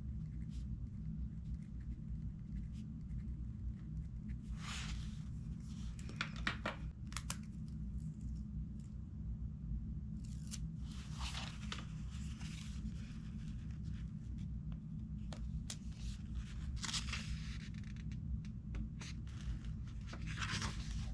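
Paper rustling in short swishes, about five of them, like book pages being turned, with a few light clicks, over a steady low hum.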